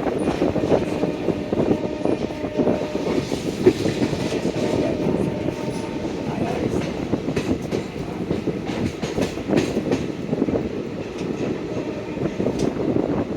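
Passenger train running along the track, its coach wheels clattering over rail joints with a continuous rumble.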